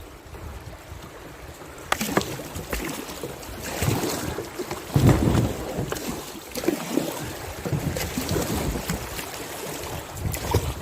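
Kayak on a river: paddle strokes splashing and water sloshing around the boat, with irregular knocks, loudest about five seconds in.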